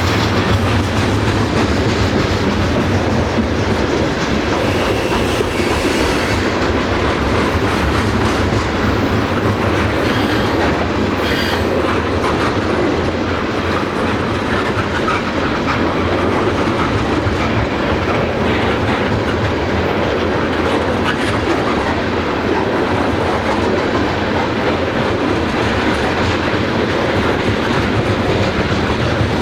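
A train's cars rolling steadily past on the rails, with wheels clicking over the rail joints and a faint squeal now and then.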